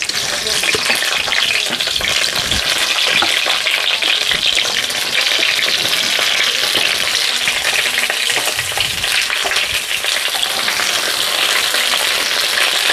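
Pointed gourd (potol) pieces sizzling steadily as they fry in hot mustard oil in a kadai, the sizzle starting suddenly as they hit the oil. A few low knocks sound as more pieces go into the pan.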